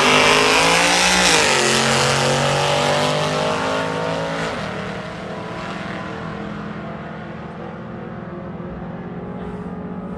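Drag racing car launching and accelerating hard down the strip. The engine pitch climbs, dips at an upshift about a second and a half in and again around four and a half seconds, then the sound fades as the car pulls away down the track.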